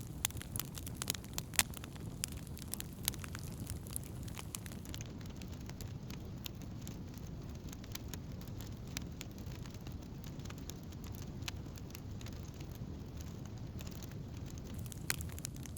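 Wood campfire crackling: many sharp snaps, thickest in the first few seconds, over a steady low rumble.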